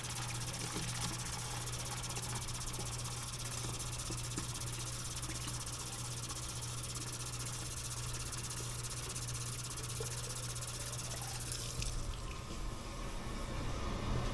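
Wet/dry shop vacuum running steadily while it sucks out a clogged air-conditioner condensate drain line: an even hiss over a low hum. The high hiss thins out about twelve seconds in.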